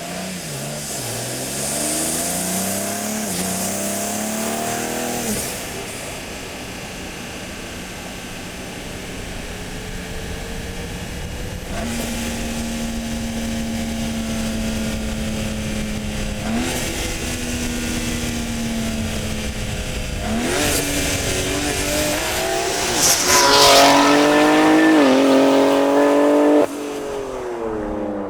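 BMW G80 M3's twin-turbo inline-six on a full titanium Valvemaster exhaust, accelerating hard past in a flyby. Its pitch climbs and breaks at each upshift, getting louder over the last several seconds, then drops off suddenly near the end.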